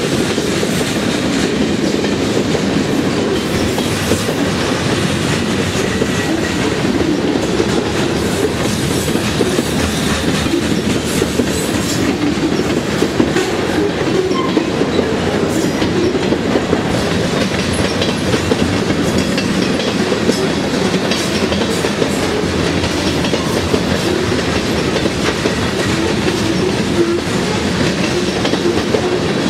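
Freight train of covered hopper cars rolling past at close range: a steady noise of steel wheels on rails, with occasional clicks at the rail joints.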